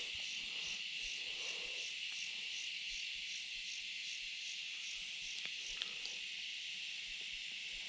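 Summer insect chorus: a steady high buzz with a higher pulsing chirp repeating about three times a second, and a couple of faint ticks.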